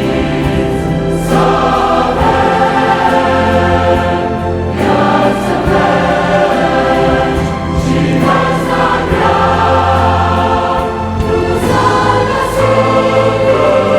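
A choir singing a Christian worship song with instrumental accompaniment, holding long chords that change every couple of seconds over a steady bass.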